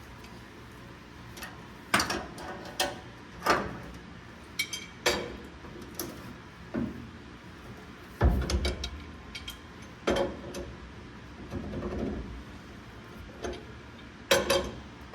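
Irregular metallic clinks and clanks of crescent wrenches on a nut and bolt while a rear suspension adjuster is turned to set the pinion angle, with a heavier, deeper knock about eight seconds in.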